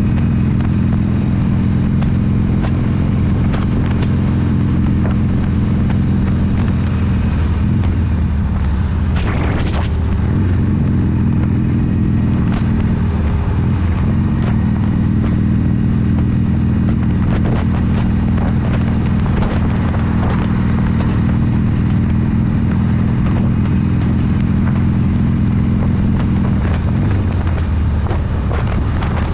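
Harley-Davidson V-twin motorcycle engine running steadily while riding at road speed, with a brief change in its note about nine to ten seconds in.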